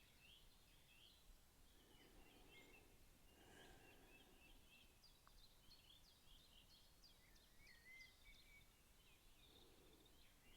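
Faint birdsong: small birds chirping and twittering at a distance, busier in the second half, over a soft outdoor hiss.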